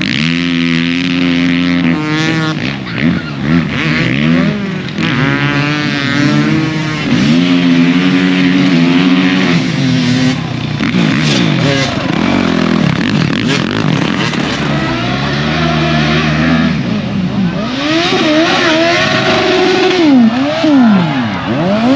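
Several motorcycle engines revving hard on a track, their pitch climbing and dropping again and again through gear changes and throttle blips. More than one bike is heard at once, loudest near the end.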